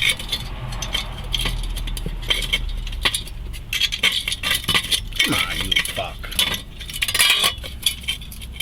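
Repeated light metallic clinks and clanks of steel tools and parts being handled and set down, scattered irregularly.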